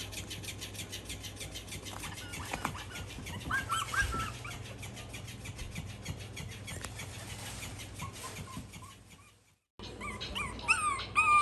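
Maltese puppies whimpering and yipping in short, high squeaks that slide down in pitch, a few about four seconds in and louder ones near the end.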